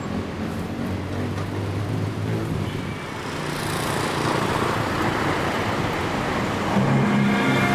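Road traffic: engines running on a busy road, then a car passing close by, its engine and tyre noise swelling in the middle. Near the end a louder, steadier hum with several pitched tones comes in.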